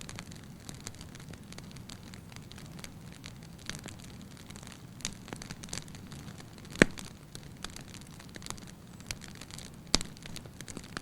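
Firewood burning in a fireplace: a low steady rumble of flame with light, scattered crackling, and two louder pops, one about two-thirds of the way in and another near the end.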